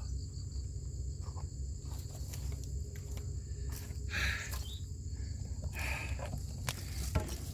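Insects chirring steadily in a high, even drone, over a low background rumble. A couple of short scuffing noises, the loudest about four seconds in and another about six seconds in.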